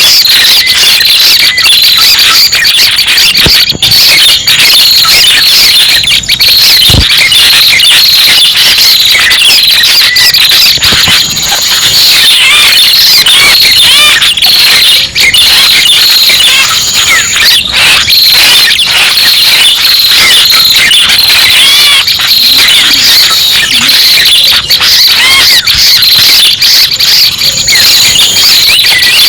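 Loud, unbroken bird-lure recording of prenjak pala merah calls: dense overlapping high chirps and squeaky trills, like many birds calling at once. It is played to lure wild birds of this kind in for trapping.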